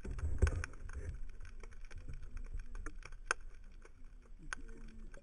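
Small boat on the water: a low rumble, strongest in the first second, with scattered light clicks and knocks.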